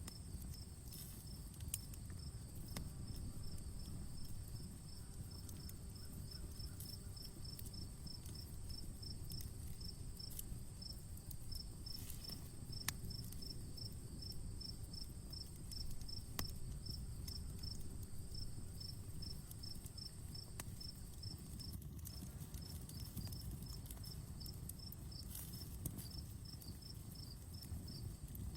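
Crickets chirping steadily at about two chirps a second over a continuous high insect drone that breaks off briefly about three-quarters of the way through. A campfire crackles with a low, even rumble and occasional sharp pops.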